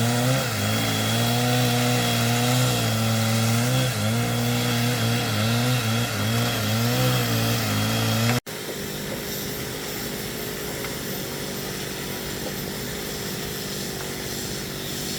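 A small petrol-engine power tool running under load, its pitch wavering up and down as it works. About eight seconds in it cuts off abruptly, and a quieter, steady machine hum follows.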